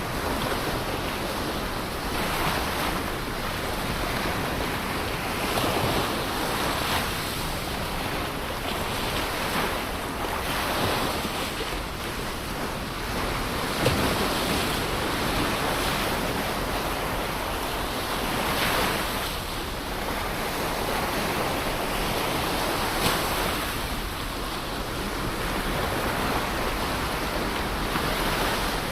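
Ocean waves breaking and washing on the shore, a continuous surf wash that swells and eases every few seconds, with some wind.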